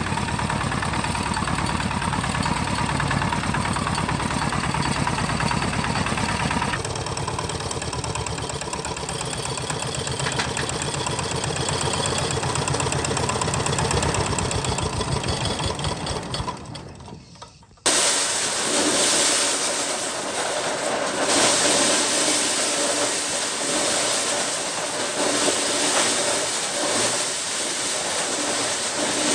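Homemade tractor's engine running with fast, even firing pulses, then dying away about sixteen seconds in. After an abrupt cut, a loud steady hiss takes over.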